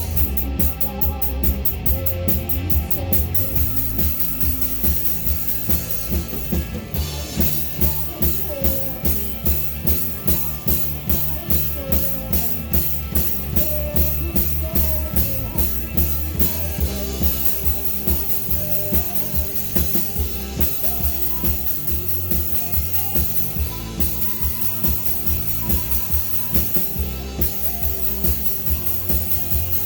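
Live rock band playing, drum kit driving a steady beat of bass drum and snare over guitar and bass.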